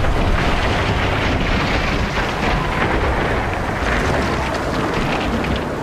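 Storm sound effects from a film soundtrack: wind blowing hard and rain falling, over a steady low rumble.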